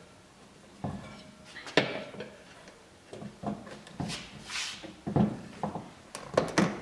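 Irregular knocks and short scrapes as a dirt bike tire is pushed and worked down onto its wheel rim on a tabletop, about eight separate handling sounds.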